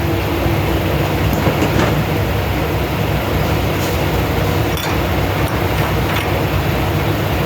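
Semi-truck diesel engine idling steadily at a fuel island, a constant low rumble under a steady hiss.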